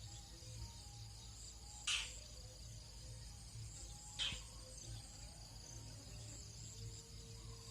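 Dawn insect chorus: a steady high-pitched buzzing trill, with two short, loud raspy calls about two seconds and about four seconds in.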